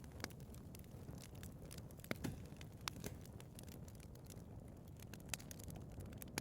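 Wood fire burning in a fireplace: a low steady rumble of flame with irregular sharp crackles and pops from the burning logs.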